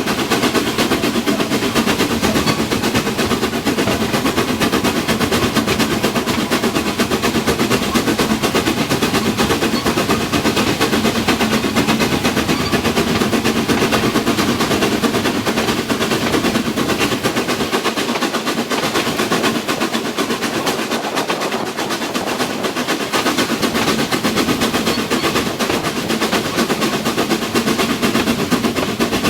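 Harz narrow-gauge steam train running, with a rapid, steady clatter of beats.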